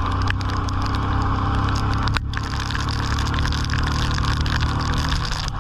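Motorcycle engine running steadily under a constant hiss of rain and wind, with a brief dropout about two seconds in.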